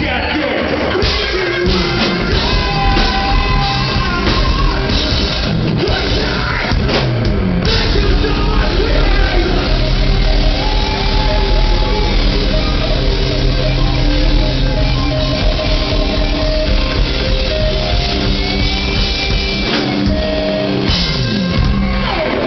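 Rock band playing live at full volume: electric guitars, bass guitar and drum kit.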